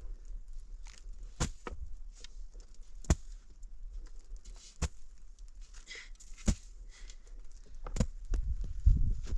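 Scattered sharp clicks and knocks, one every second or two, over faint rustling; low, heavier thuds build near the end.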